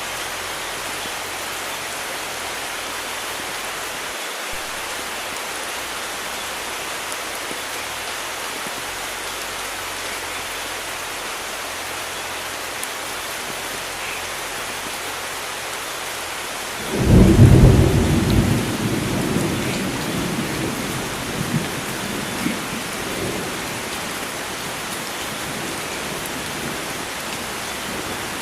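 Steady heavy rain hissing, with a clap of thunder breaking in about two-thirds of the way through: a sudden loud low rumble that dies away over several seconds with a few later crackles.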